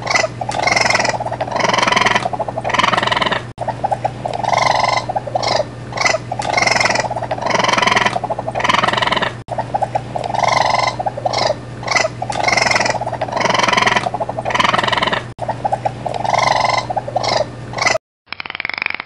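An animal calling in quick pulsed bursts, one short recording looped so that the same pattern repeats about every six seconds over a steady low hum. Near the end it cuts to a different, duller-sounding recording.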